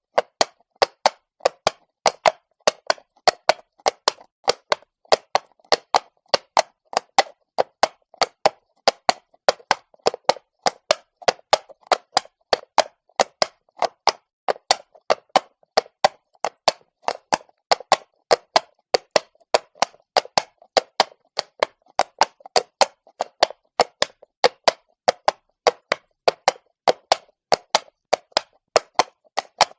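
Horse's shod hooves walking on stone, a steady clip-clop of sharp strikes, about three to four a second, some louder than others.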